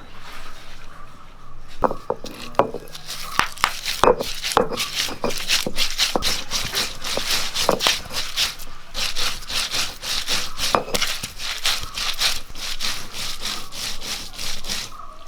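Bird's eye chillies, garlic and ginger being crushed and ground into a paste, rhythmic back-and-forth scraping strokes at about two to three a second, with a short pause around the middle.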